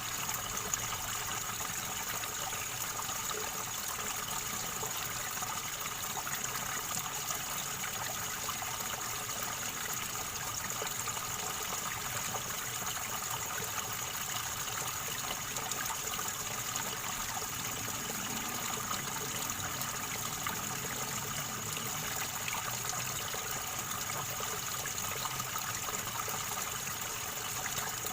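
River water gurgling and trickling, a steady rushing with no pauses.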